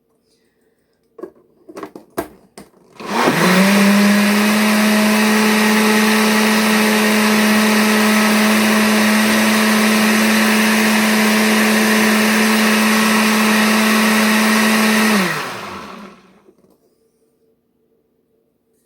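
Electric kitchen appliance motor starting about three seconds in, running at a steady speed for about twelve seconds, then winding down. A few sharp clicks come just before it starts.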